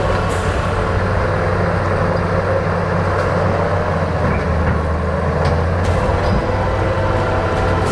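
Bulldozer's diesel engine running steadily under load, a deep hum with a wavering higher whine over it and a few faint clanks.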